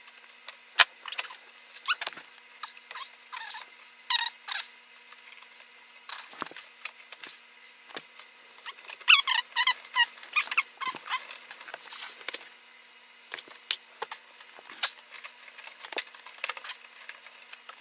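Scattered clicks, light knocks and short squeaky scrapes of hands and tools working the wiring loose at a dishwasher's electrical junction box, busiest about nine seconds in.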